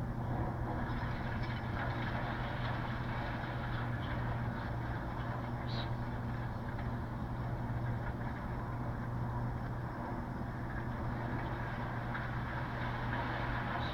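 Heavy demolition machinery with its engine running steadily at a low hum, with a faint brief clink about six seconds in.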